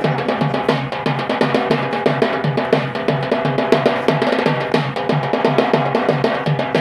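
Yemeni traditional drums playing a fast, steady bara'a dance rhythm: quick sharp strokes over a repeating pitched low drum beat.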